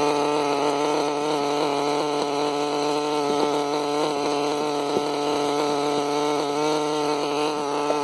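Norvel .061 1/2A two-stroke nitro glow engine of a small RC helicopter, running steadily at a constant high buzz.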